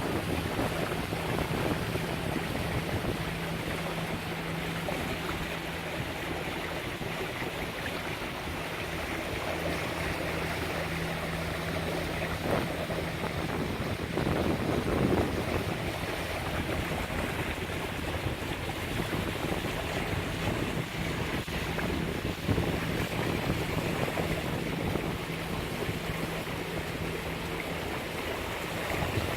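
Lagoon 42 catamaran motoring under diesel power: a steady low engine hum under wind on the microphone and the noise of water along the hulls.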